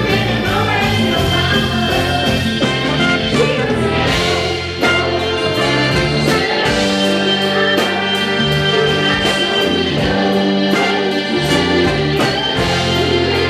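Live band performing a song: a singer over a steady drum beat and bass line.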